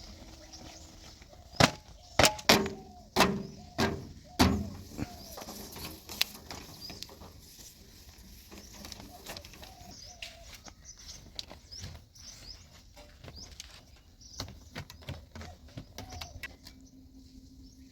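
A quick run of about six loud knocks a couple of seconds in, then scattered small clicks, with birds chirping throughout.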